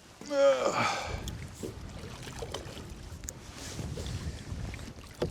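A man's short vocal groan that falls in pitch, about half a second in. It is followed by wind buffeting the microphone as a steady low rumble.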